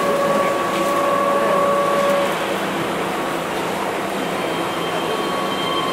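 Keihan 5000 series electric train running, heard from inside the car: a steady rumble with thin, steady squealing tones over it. The tones fade about two seconds in and come back higher near the end.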